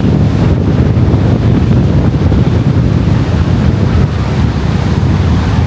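Strong gusty wind buffeting the microphone in a loud, steady low rumble, with ocean surf breaking behind it.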